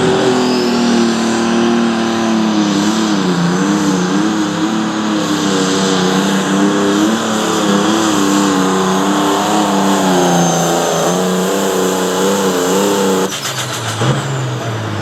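Pulling tractor's engine running at full throttle under the load of the sled, its pitch wavering as it labours down the track, with a faint high whine above. The engine note drops off suddenly near the end as the pass finishes.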